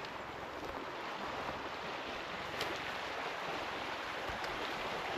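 Forest ambience: a steady, even rushing hiss, with a few faint sharp ticks.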